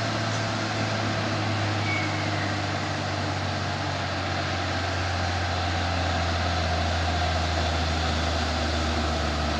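Heavy truck's diesel engine running steadily, a low even drone.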